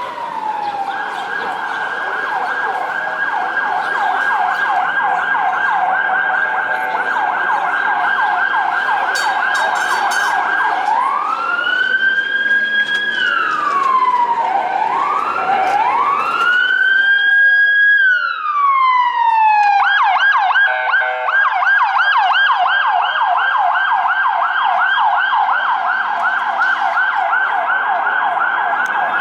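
Emergency vehicle siren sounding loudly: a rapid yelp warble, switching about eleven seconds in to a slower rising and falling wail for several cycles, then back to the rapid yelp about twenty seconds in.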